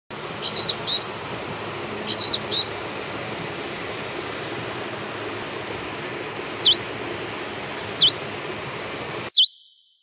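Birds calling over a steady background hiss: two short bursts of high twittering in the first three seconds, then three long whistles that sweep down in pitch and warble, spaced about a second and a half apart. The sound cuts off suddenly near the end.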